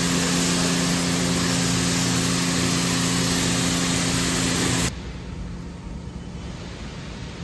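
High-pressure car wash spray, a loud steady hiss over the hum of the washer's pump, cutting off abruptly about five seconds in and leaving a fainter hiss.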